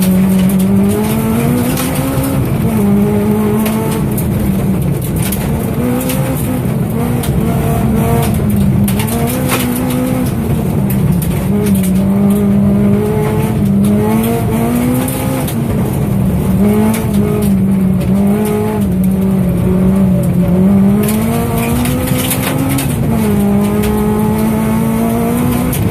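Citroën C2 rally car's engine running hard on gravel, its pitch climbing and then dropping over and over as the car accelerates, lifts off and changes gear.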